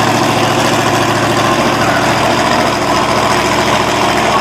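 Monster truck engines idling, a loud, steady engine sound with no revving.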